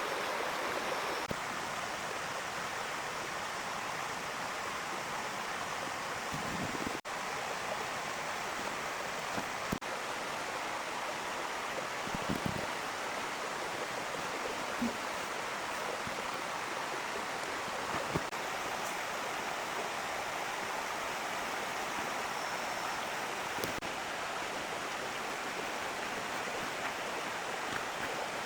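Heavy rain falling in a steady hiss, with a few short pops scattered through it.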